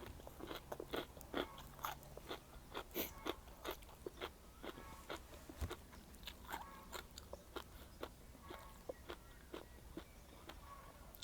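A person chewing a mouthful of seafood papaya salad close to the microphone: a steady run of crisp crunches and wet mouth clicks, a few a second.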